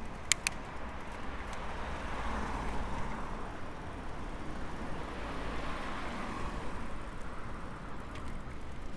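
Road traffic passing: a steady rush of car tyres and engines that swells and fades twice. Two sharp clicks come right at the start.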